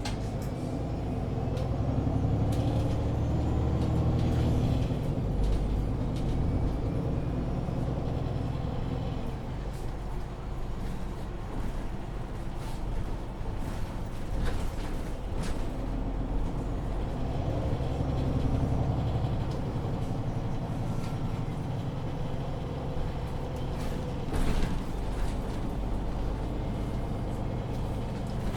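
MAN Lion's City 19C EfficientHybrid articulated bus with Voith automatic gearbox, heard from inside the cabin while driving: the diesel engine pulls hard and rises in pitch early on, eases off around a third of the way in, then pulls again twice. Short clicks and hisses cut in now and then.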